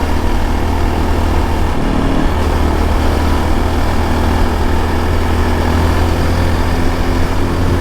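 Motorcycle engine running steadily on the move, with a steady rush of wind on the helmet microphone; the engine note shifts slightly about two seconds in.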